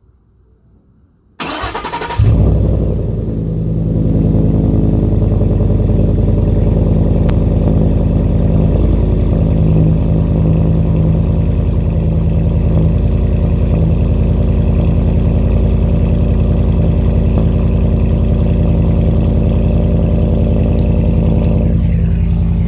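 Ford 5.0 Coyote V8 of a 2012 F-150 cold-starting through the factory exhaust with the muffler deleted. The starter cranks briefly, the engine catches loudly about two seconds in, and it settles from a fast idle into a steady, loud idle.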